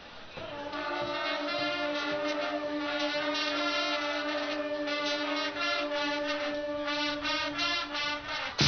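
Guggenmusik carnival brass band playing: low held chords under a brass melody of short, repeated stabs. At the very end the whole band comes in loudly with drums.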